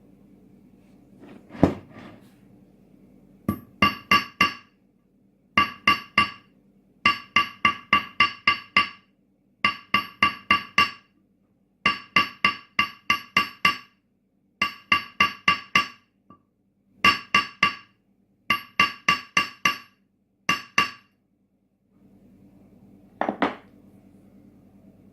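Small hammer tapping a toy car's steel axle on a steel block, each strike ringing with a bright metallic tone. The strikes come in quick runs of about four to seven, with a single duller knock near the start and near the end.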